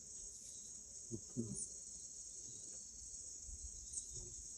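Steady high-pitched insect chorus, faint, with a couple of soft low sounds about a second in.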